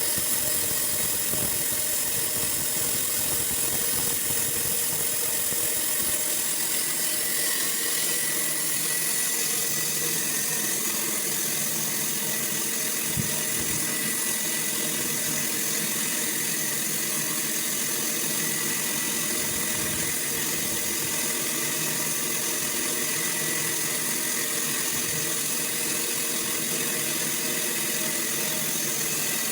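Sawmill running steadily while sawing boards: a continuous mechanical drone with a high whine, and one short knock about 13 seconds in.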